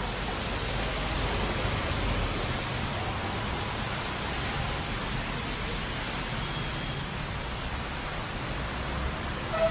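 Heavy rain pouring onto a waterlogged road as a steady hiss, with a low rumble of traffic, auto-rickshaws, motorbikes and cars, driving through it. A short beep near the end.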